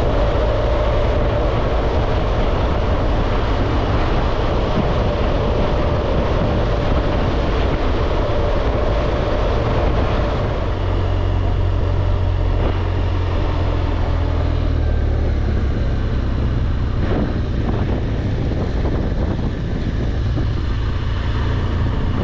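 BMW R1200GS Adventure's flat-twin boxer engine running steadily under way, with wind rush on the microphone; the higher rush eases about halfway through while the low engine note carries on.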